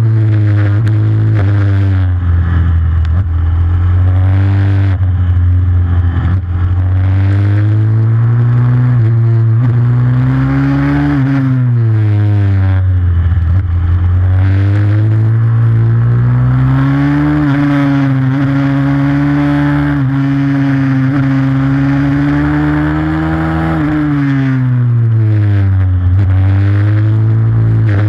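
Single-cylinder pit bike engine racing, revving up through the gears and shutting off into corners, its pitch climbing and falling over and over. Past the middle it holds a long steady high-revving stretch before dropping again.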